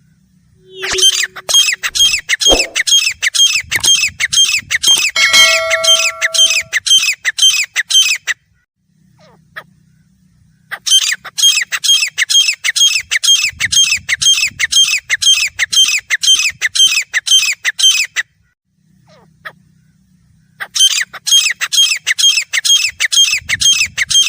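Grey francolin calling: three long runs of rapid, evenly repeated shrill notes, about three or four a second, each run lasting about seven seconds with short pauses between.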